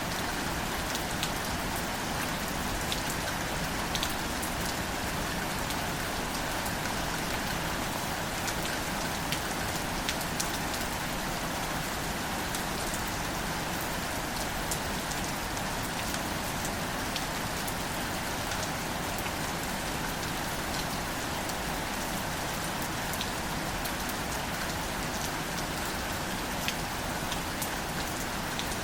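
Steady rain falling on greater celandine wildflowers and foliage, a soft even patter with scattered sharper drop ticks.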